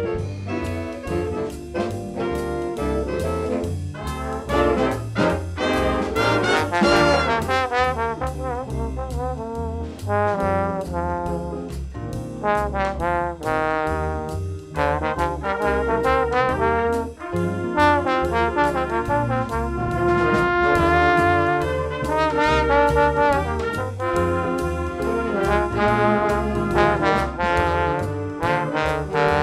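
A student band playing an instrumental piece, several instruments sounding sustained notes together over a continuous low part.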